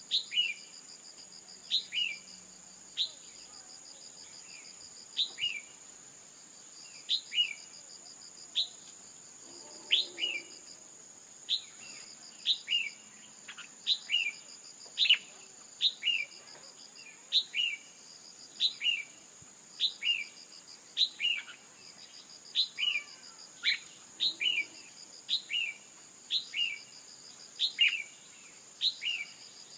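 Red-whiskered bulbul calling: short, sharp downslurred notes repeated about once a second, coming faster in the second half. This is the female's call, used to provoke males into singing. A steady high insect buzz and a pulsing insect trill run underneath.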